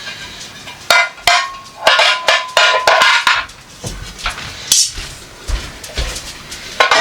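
Dishes clinking and clattering as they are washed by hand, a run of knocks with short ringing notes about a second in and again near the end.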